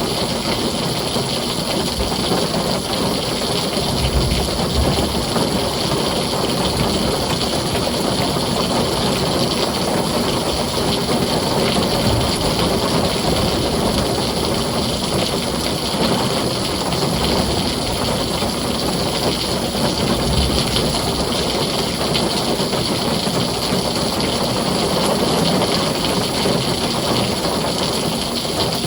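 Heavy rain falling steadily on a tin roof, a dense even patter, with low rumbles of thunder swelling briefly a few times.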